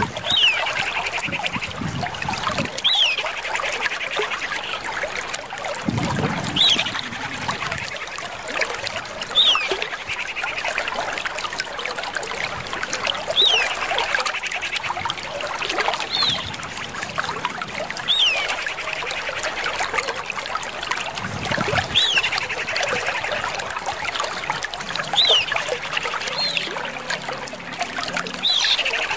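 Common iora (Aegithina tiphia) calling: short, high, down-slurred whistles repeated about every two to four seconds, over a steady trickling-water background.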